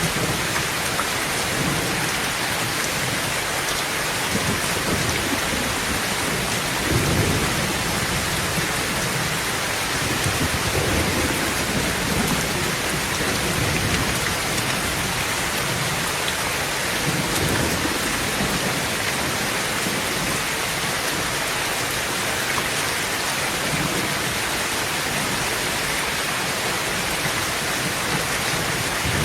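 Heavy rain falling steadily on a tin tent roof, with a few low rolls of thunder rumbling underneath; the strongest is about seven seconds in.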